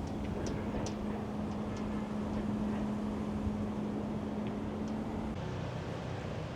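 Steady outdoor rumble of a distant engine or vehicle, with a low steady hum that cuts off about five seconds in and a few faint ticks.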